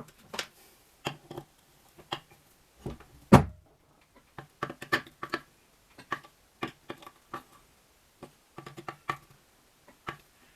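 Irregular clicks and knocks of tools and metal parts being handled during work on the engine, with one heavier thump about three and a half seconds in.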